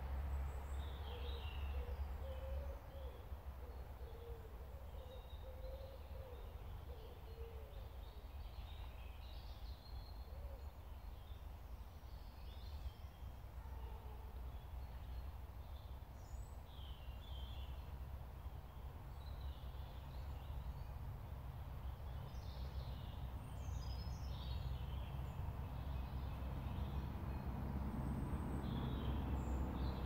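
Woodland birds calling on and off with short, high chirps and trills, with a lower wavering call in the first several seconds. A steady low rumble runs underneath and grows louder near the end.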